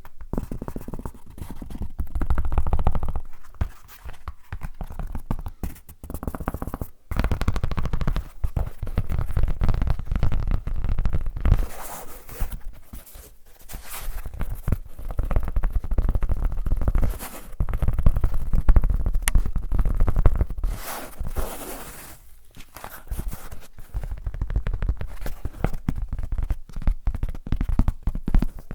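Close-up ASMR trigger sounds: objects scraped, scratched and rubbed right at the microphone, in irregular bursts a few seconds long with a deep rumble underneath.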